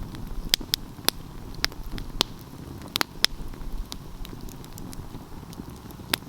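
Wood fire crackling: a steady low rumble of flames with sharp pops at irregular intervals, several close together in the first second and a pair about three seconds in.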